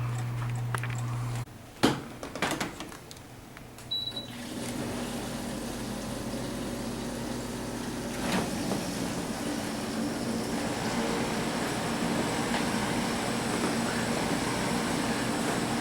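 A few clicks and a short high beep, then a home HVAC system starting up about four seconds in and running with a steady airy hum that slowly grows louder.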